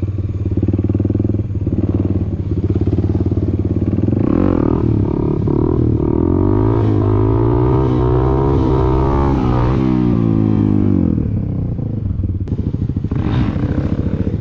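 Dirt bike engine running, then revved hard from about four seconds in, its pitch climbing and wavering while held on the throttle. It drops back down near eleven seconds.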